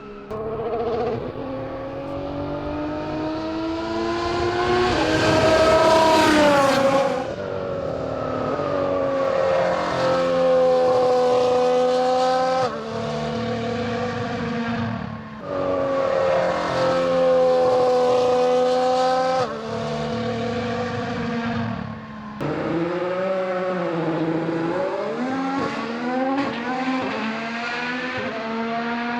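Red Bull RB15 Formula One car's Honda 1.6-litre turbo V6 hybrid engine at speed, its pitch rising through the revs and falling again on gear changes and as it passes, in several short cuts.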